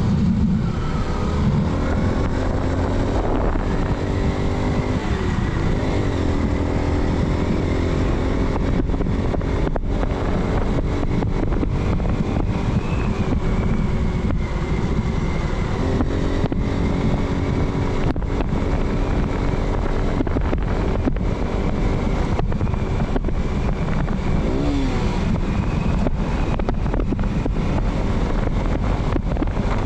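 Motorcycle engine running under way, its note shifting in pitch a few times, over a steady rush of wind on the microphone.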